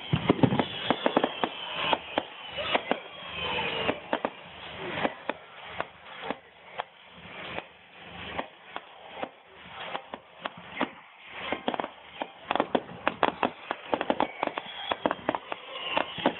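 Fireworks display: a dense run of irregular pops, bangs and crackles, with a few whistling glides near the start, and the crackling thickening again towards the end.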